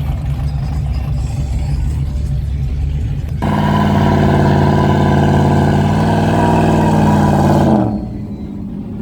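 Car engine running low, then about three seconds in it is suddenly revved hard and held at high, steady revs for about four seconds before the revs fall off and it drops back near the end.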